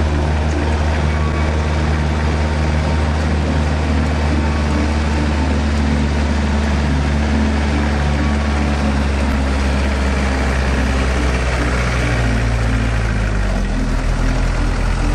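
Kubota farm tractor's diesel engine running steadily while rough-tilling a rice paddy, with a deep, even drone. Its low note drops slightly near the end.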